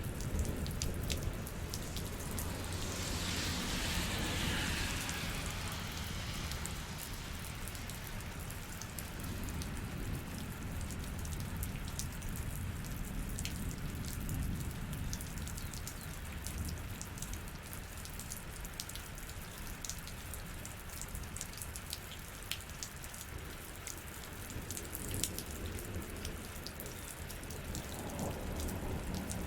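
Steady rain falling, with many individual drops ticking close by over a low rumble. A hissing swell falls in pitch about three seconds in, and a low rumble builds near the end as thunder sets in.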